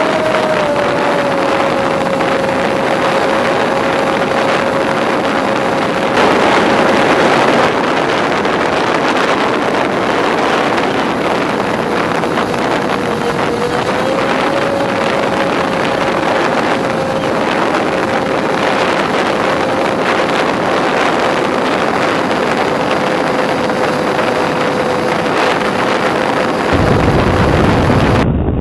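Twinstar II RC plane's twin electric motors and propellers running at a steady pitch, with heavy wind rushing over the onboard microphone. The motor pitch dips slightly just after the start and rises briefly about halfway through.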